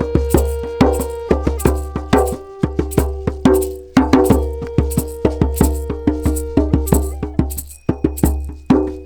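Tuned percussion played live: quick runs of struck notes that ring and overlap, with a deep low resonance under them and brief pauses twice.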